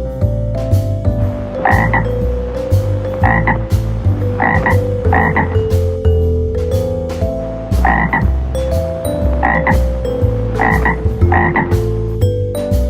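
Frog croaking: about eight short croaks at uneven intervals, over a children's background music track with a steady bass.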